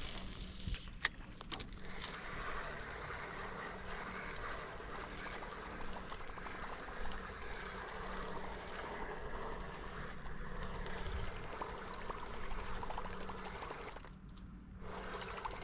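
Water trickling and lapping around a canoe, with a couple of light knocks about a second in.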